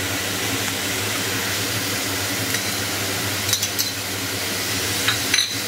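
Onion paste and freshly added ginger-garlic paste sizzling steadily in ghee and oil in a pan, with a few light clinks of a utensil against the pan about halfway through and near the end.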